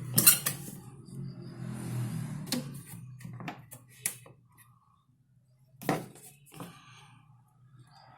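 Scattered handling knocks and clicks with some rustling: a few sharp hits near the start, a quiet stretch around the middle, and a louder knock about six seconds in.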